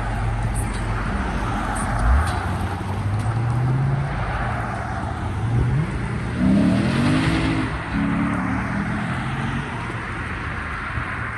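Car engines running, with one revving and rising in pitch several times over a steady background of engine and traffic noise.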